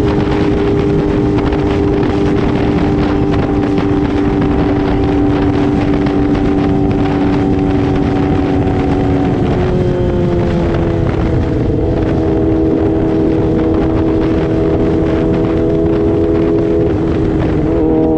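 Yamaha R6 sport bike engine held at high, steady revs while riding, with heavy wind rush on the microphone. The engine note drops about halfway through as the revs come down, then holds steady again.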